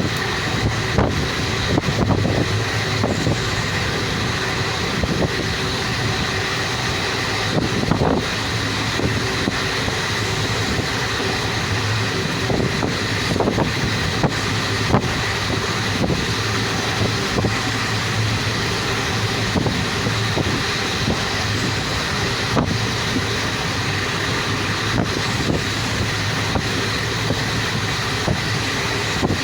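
Moving passenger train: a steady rumble with wind buffeting the microphone, broken by scattered short knocks.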